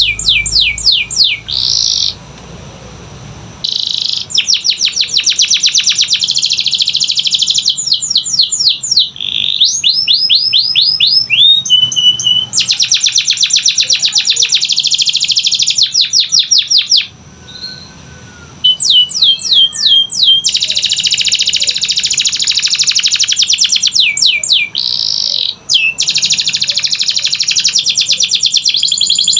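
Domestic canary singing long, rapid trills and rolls of repeated notes, mixed with fast falling whistled sweeps, with short pauses about two seconds in and again past the middle.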